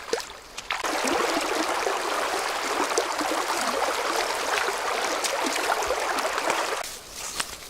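Water running and splashing for about six seconds, starting abruptly about a second in and cutting off near the end, with small clicks and knocks around it.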